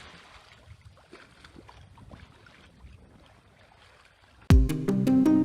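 Faint noise of wind and rough sea with a few small knocks, then background music with a steady beat cuts in suddenly near the end, much louder.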